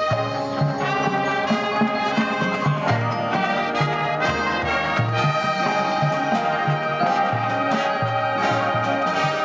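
Marching band playing, led by brass (trumpets and trombones) holding sustained chords over a rhythmic low brass and bass line.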